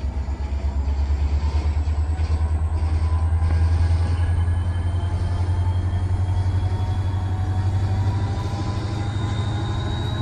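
Freight train of tank cars rolling slowly through a rail yard: a steady low rumble, with a thin, high wheel squeal that slowly rises in pitch from about four seconds in.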